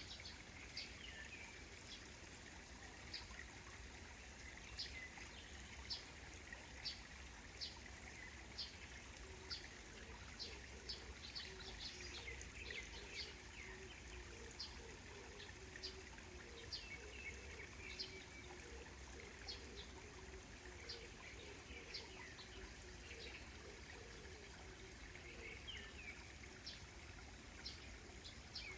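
Gentle trickle of a small stream, with scattered short bird chirps and calls throughout.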